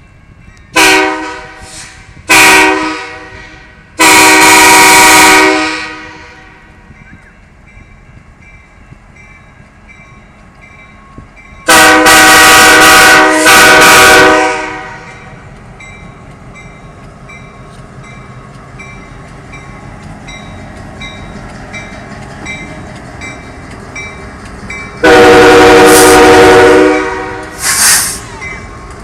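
Train air horn sounding a series of loud blasts on one chord: two short toots and a long blast, then two long blasts, and near the end a long blast and a short toot. Between the blasts the passing train runs with a steady rumble.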